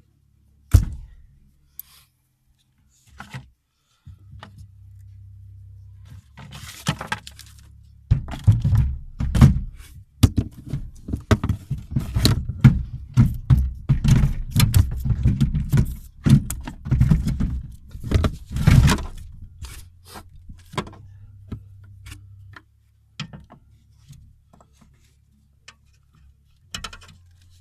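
Fiat 126p's small two-cylinder air-cooled engine being cranked over after five years standing, with a key click near the start, then loud, uneven thudding and rattling bursts for about eleven seconds as it tries to fire.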